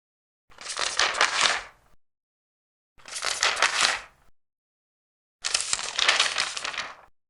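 Large paper pages being turned, three separate turns each lasting about a second and a half, with a crisp papery rustle and complete silence between them.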